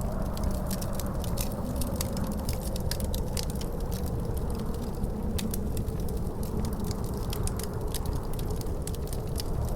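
Wood fire crackling with frequent sharp pops, over a steady low rumble of wind with a faint howling tone that slowly sinks in pitch.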